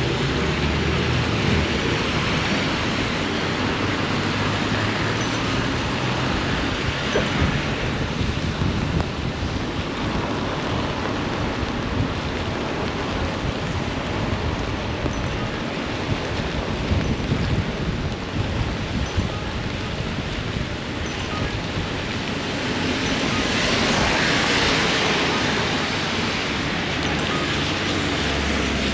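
Steady rushing wind and rain noise on the microphone while riding an e-bike through wet streets. About three-quarters of the way through a louder hiss swells and fades.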